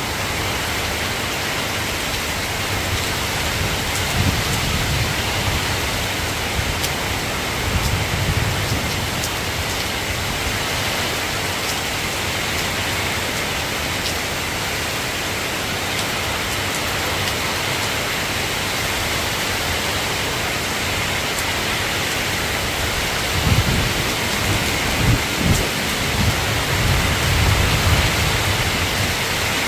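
Steady rain falling, with low rumbles of thunder about four and eight seconds in and a run of rumbles near the end.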